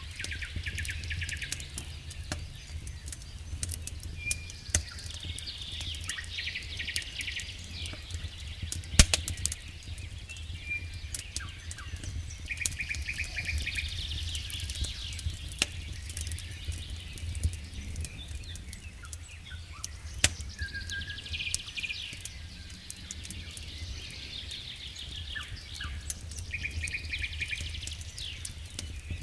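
Songbirds singing repeated trilled phrases over the sharp, scattered pops and crackle of a wood campfire, with a low steady rumble underneath.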